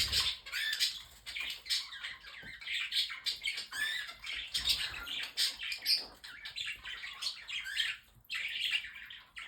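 A flock of pet budgerigars chattering and warbling, with squawks from other small parrots among them: many overlapping chirps that never stop for long.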